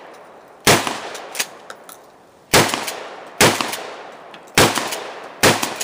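Five .44 Magnum gunshots fired at an unsteady pace, one to two seconds apart, each a sharp crack followed by a fading echo.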